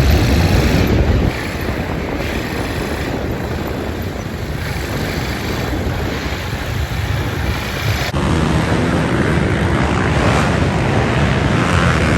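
Dirt bike engines running under wind noise on the microphone, with abrupt changes in the sound about a second in and again about eight seconds in.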